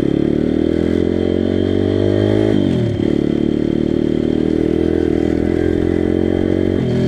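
Pit bike engine running under way, its pitch climbing steadily, then dropping sharply about two and a half seconds in before holding fairly steady.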